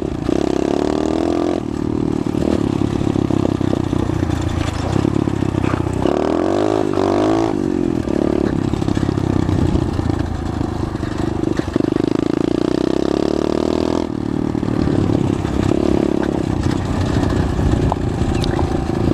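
Pit bike's small single-cylinder engine running under way. The pitch holds steady for long stretches, then dips and climbs again about six to eight seconds in as the bike slows and accelerates.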